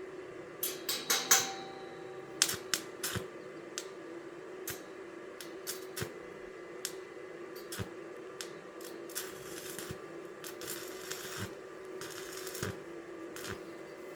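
Metal parts being handled and knocked together. A cluster of sharp knocks comes about a second in, one leaving a brief metallic ring, then scattered light clicks and a few short scraping hisses over a steady low hum.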